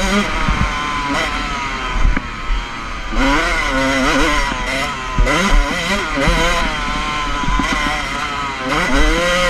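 Motocross bike engine revving hard, its pitch climbing and dropping again and again as it accelerates and shifts, over a low rumble.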